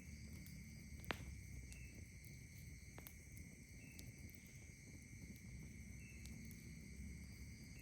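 Night insects such as crickets trilling steadily in several high-pitched bands, with a short higher call repeating about every two seconds. A few sharp campfire crackles cut through, the loudest about a second in and another around three seconds in.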